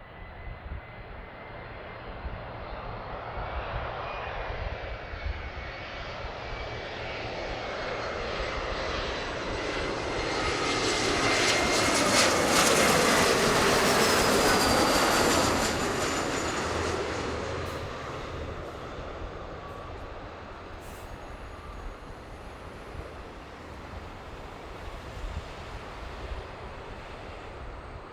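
Jet airliner on final approach, passing the runway-side camera: the engine noise builds steadily, is loudest for a few seconds near the middle, then fades. A thin engine whine slides down in pitch as the plane goes by.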